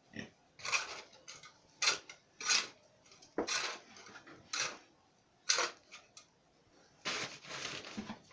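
Shovel mixing dry cement and gravel: a series of irregular scraping, crunching strokes with short pauses between.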